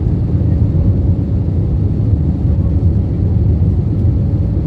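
Steady low roar of a jet airliner's engines and rushing air heard from inside the cabin in flight, with a faint steady hum above it.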